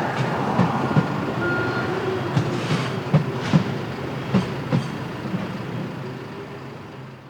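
Freight train wagons rolling past, their wheels knocking over rail joints in a repeated clickety-clack. The sound fades gradually as the train moves away.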